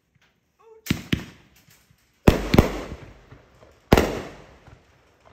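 Consumer aerial firework shells bursting overhead: about five sharp bangs in three groups, each trailing off over a second or so. The loudest pair comes about two and a half seconds in.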